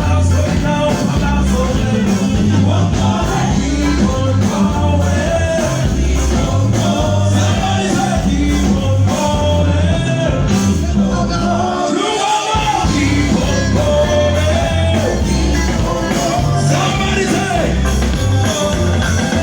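Amplified live band music with a singing voice over a heavy, steady bass line; the bass drops out briefly a little past the middle.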